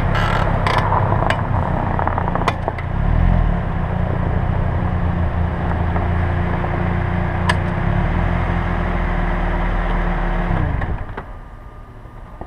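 Inside a 2007 Pontiac Vibe/Toyota Matrix while driving: steady engine and road noise, with a quick run of creaking, cracking bursts in the first second. This is the left front brake under braking, its pads bare and ungreased where they touch the pad holders. About eleven seconds in, the engine tone falls and the noise drops away sharply.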